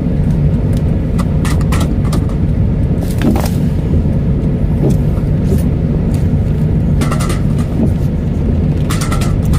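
A car running, heard from inside the cabin: a steady low road rumble, with scattered light ticks and taps.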